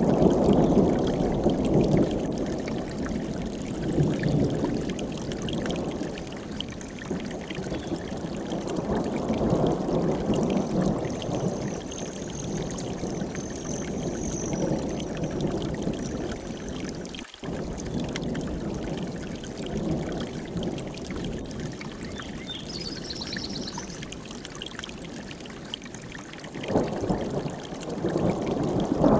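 Mountain stream rushing and gurgling over rocks, a steady churning flow that swells and eases, with a faint high bird call near the middle and a brief dropout just past halfway.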